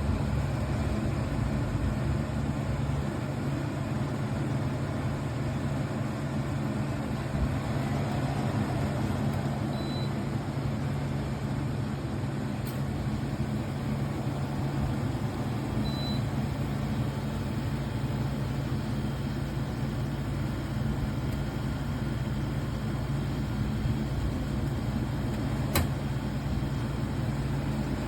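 Amazon Basics 13,000 BTU portable air conditioner running: a steady low hum from the compressor and fan with an even rush of air.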